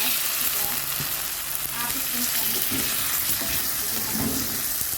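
Food frying in hot oil with a loud, steady sizzle.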